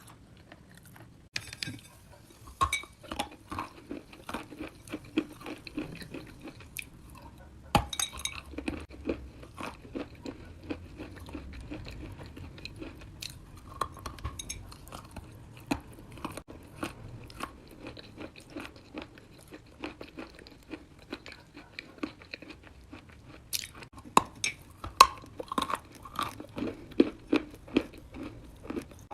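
Wet chalk being bitten and chewed: a steady run of crisp crunching and crackling clicks. A sharp bite stands out about eight seconds in, and the crunches grow louder near the end.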